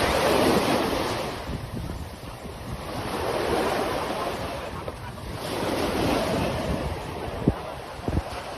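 Sea waves breaking and washing up a beach, swelling and fading every few seconds, with wind rumbling on the microphone. A couple of short knocks near the end.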